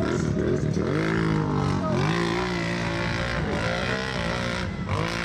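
ATV engines revving, their pitch rising and falling repeatedly as riders accelerate and back off around a short dirt track.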